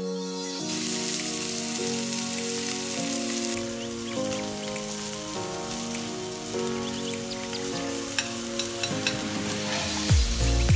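Steak sizzling as it sears in a hot cast-iron pan, a steady hiss with scattered sharp pops of spattering fat, starting about a second in. Background music plays throughout, and a heavy bass beat comes in near the end.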